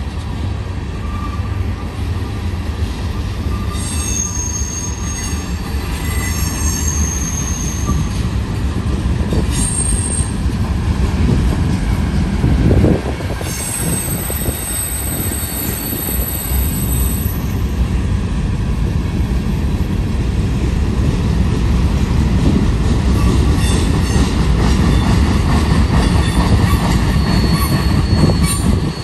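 Freight cars (tank cars and covered hoppers of a manifest train) rolling past with a steady low rumble of steel wheels on rail. High-pitched wheel squeals come and go: one a few seconds in, a higher one from about 13 to 17 seconds, and another near the end. A brief louder thump about 13 seconds in.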